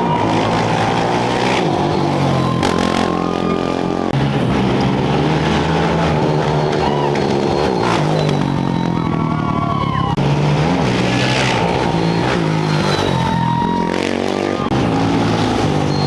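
Off-road race motorcycles running and revving, several engines at once, their pitch rising and falling as they rev and pull away.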